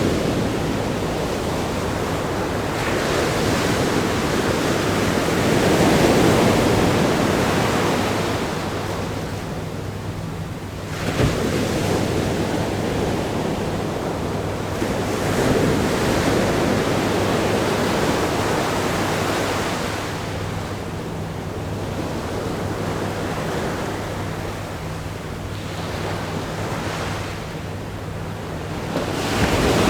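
Ocean waves crashing against a rock groin and washing over sand: a continuous rush of surf that swells and eases every few seconds, with a sharper splash about eleven seconds in.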